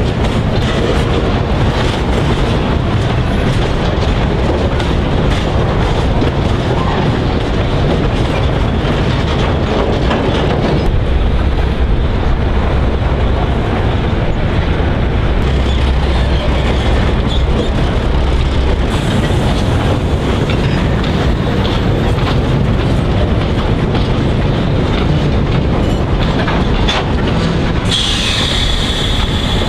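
Wagons of a narrow-gauge wheat train rolling past, their wheels clattering steadily over the rail joints with a continuous rumble.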